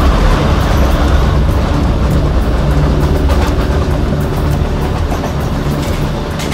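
Railway sound effect of a train rolling past: a steady loud rumble with a low hum and scattered clacks of wheels on the rails.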